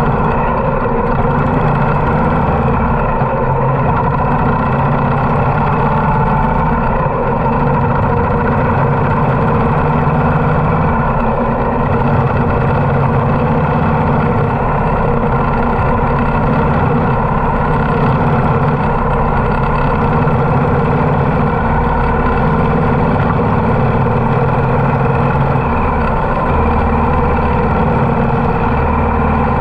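Harley-Davidson V-twin motorcycle engine running steadily throughout.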